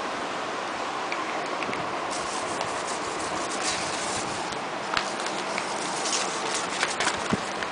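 Five-week-old Lhasa Apso puppies scuffling at play: scratching and rubbing sounds, with scattered light clicks and knocks from about two seconds in, over a steady hiss.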